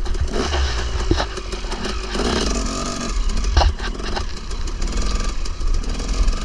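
KTM 300 two-stroke dirt bike engine running, a steady low rumble with a few sharp knocks, the loudest about three and a half seconds in.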